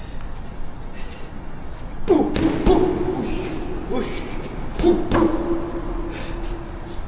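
Two sets of heavy thuds, about three seconds apart, each leaving a ringing tone that fades over about a second.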